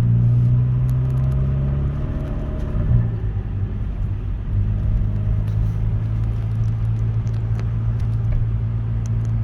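Steady low hum of a car engine running.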